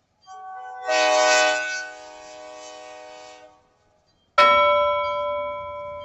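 A train horn sounds one long blast, swelling loud and then easing off before it stops. About a second later comes a single sudden bell-like strike that rings and slowly fades.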